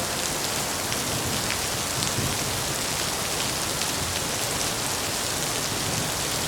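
Steady rain falling: an even hiss of rain on a surface, with scattered individual drop ticks.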